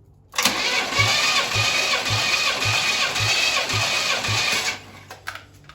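Pontiac 350 V8 being cranked over on its starter for a compression test, without firing. It cranks steadily for about four and a half seconds with a regular low pulse about twice a second, then stops abruptly.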